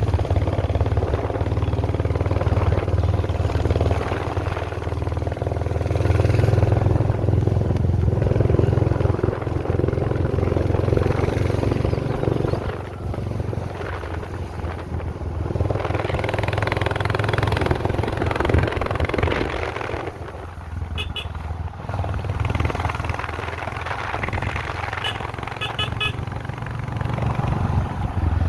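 A vehicle's engine running steadily while travelling along a road, with rushing noise over the microphone. A few short high beeps sound about two-thirds of the way through and again near the end.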